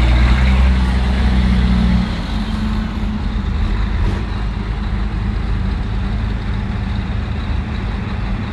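Heavy truck engines running as trucks move off in a convoy. A loud, low engine note holds for about two seconds, then drops to a quieter, rougher engine sound.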